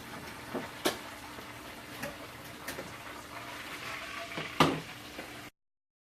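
A handful of short knocks and clinks of kitchenware against dishes, spread out over a few seconds; the sound cuts off abruptly about five and a half seconds in.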